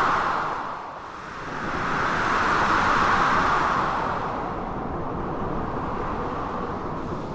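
Storm ambience of blizzard wind and crashing sea waves: a steady rushing noise that swells at the start, dips about a second in, surges again for a couple of seconds, then eases.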